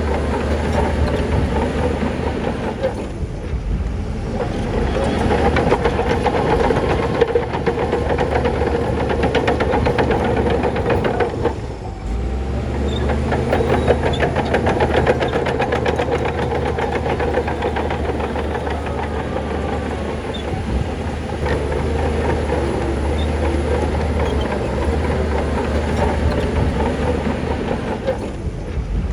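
Crawler bulldozer's diesel engine running steadily under load, with a rapid clatter of steel tracks; the sound breaks briefly about three and about twelve seconds in.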